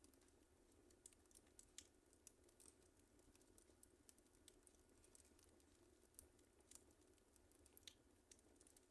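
Wood fire crackling faintly in a fireplace: irregular small snaps and pops, several a second.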